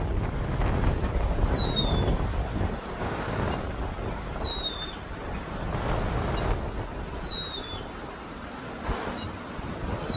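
A bird calling over and over, a short high falling note about every three seconds, over a steady rumble of road traffic.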